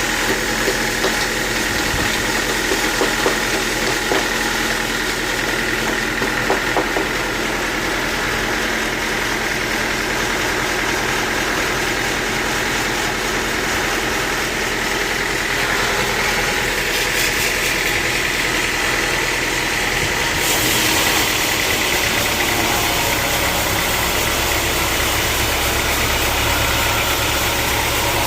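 Sawmill machinery running steadily with a constant whine, a few knocks in the first seconds, growing louder and hissier about twenty seconds in.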